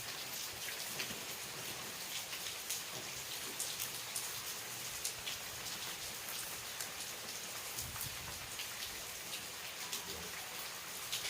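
Steady rain falling, a constant hiss broken by many separate drop hits.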